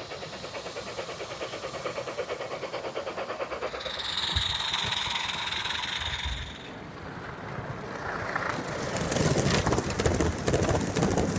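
A garden-railway model locomotive running on the track with a fast, even rhythmic beat. A steady high tone sounds for a couple of seconds in the middle, and the clatter gets louder near the end.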